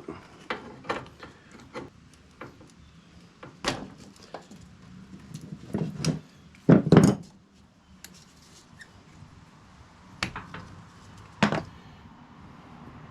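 Hand tools and small parts being handled while working on a lawn tractor's fuel line: scattered clicks and knocks, with a louder double knock about seven seconds in and two sharp clicks near the end.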